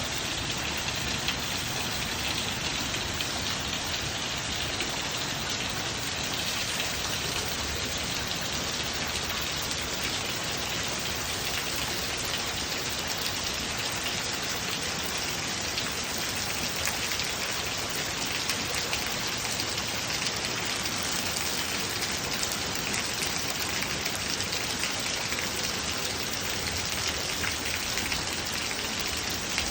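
Steady rain falling, an even hiss of many drops that keeps up without let-up.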